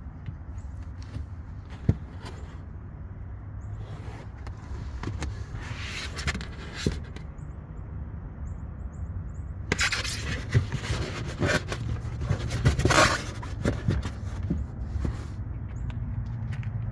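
Scraping, shuffling steps with a few sharp clicks, loudest about six seconds in and again from about ten to thirteen seconds, over a steady low hum.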